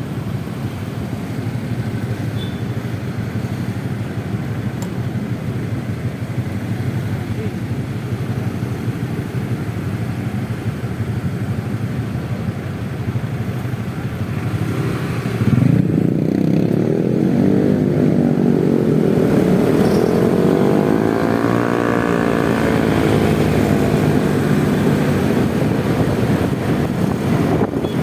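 Motor scooter ridden through city traffic: steady engine and road noise. About halfway through it gets louder, and an engine note rises in pitch, then eases back down.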